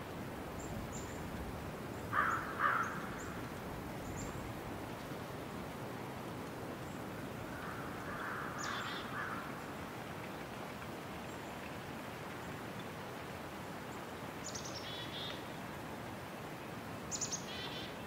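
Outdoor ambience of steady background noise with wild birds calling: two short calls about two seconds in, a longer call around eight seconds, and thin high chirps near the end.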